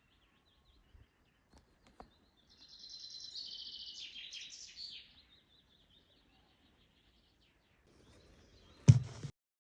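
Newly hatched bird chicks giving high-pitched begging chirps, a dense chorus for a couple of seconds with fainter chirps before and after. A sudden loud thump near the end.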